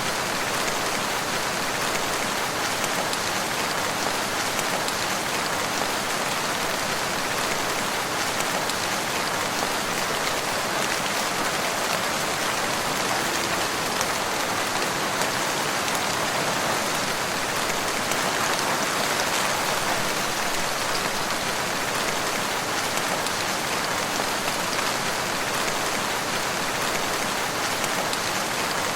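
Steady rain falling in woodland, an even hiss of drops without thunder or breaks.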